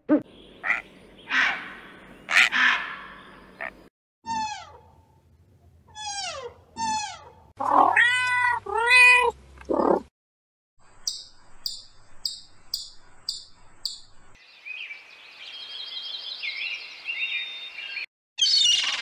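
A domestic cat meowing again and again, each cry falling in pitch, between other animal calls: harsh, noisy calls at the start, then a run of about six short high chirps evenly spaced, then a higher warbling sound.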